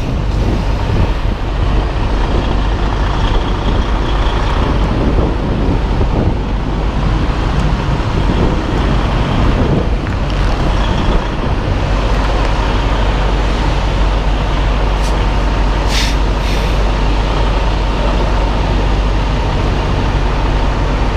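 Semi tractor's diesel engine running steadily at low speed, heard inside the cab as a constant low rumble during slow backing manoeuvres. A couple of short hisses come through about two-thirds of the way in.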